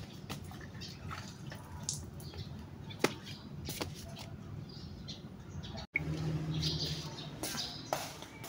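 Outdoor ambience with scattered short bird chirps and a sharp click about three seconds in. After a brief dropout near six seconds, a low steady hum joins the chirping.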